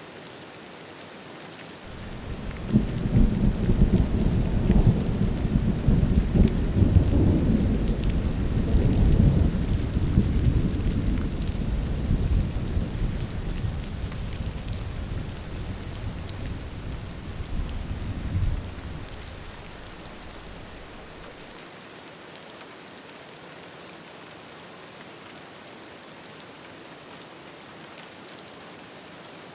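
Steady rain with a long, low roll of thunder. The thunder starts about two seconds in, rumbles for some fifteen seconds, then drops away fairly suddenly, leaving the rain alone.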